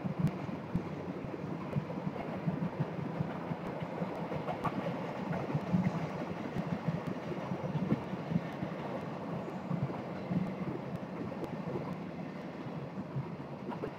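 Freight train of empty windmill-blade flatcars and empty coal cars rolling past: a steady rumble of steel wheels on rail, dotted with frequent clicks and clanks.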